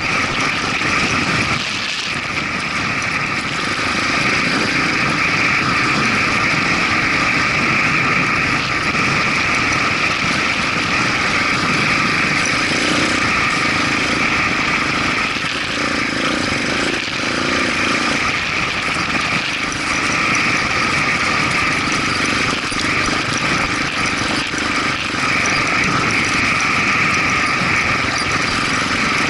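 Motorcycle engine running steadily and loudly, with no breaks.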